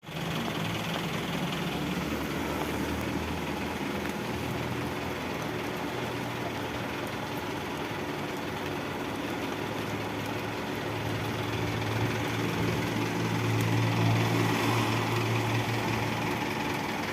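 A vehicle engine idling with a steady low hum that swells a little past the middle, under a continuous hiss of heavy rain.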